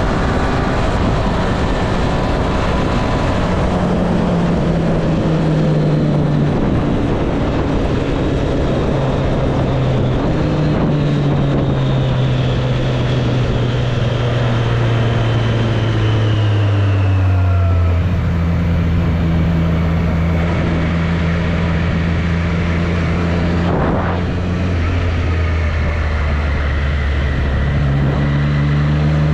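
2024 Triumph Street Triple 765 RS inline-three engine running under way, its note stepping and sliding down over the first half as revs fall, holding low, then climbing again near the end. A steady rush of wind and road noise runs underneath, with one sharp click about two-thirds of the way through.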